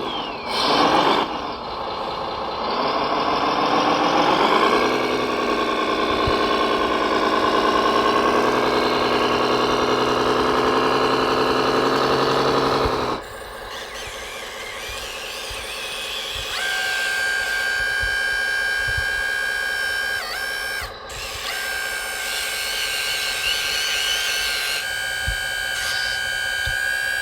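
Radio-controlled model truck or construction machine running: a pitched engine-like sound rises about four seconds in and holds steady, then cuts off suddenly about thirteen seconds in. A quieter, steady high whine takes over a few seconds later.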